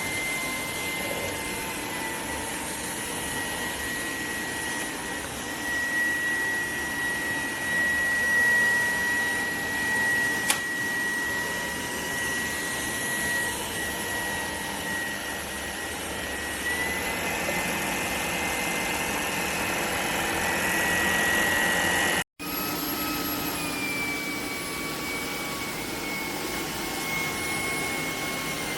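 Shark PowerDetect cordless stick vacuum running steadily, its motor whine carrying a high whistle that shifts slightly in pitch. The sound cuts out for an instant about two-thirds of the way through.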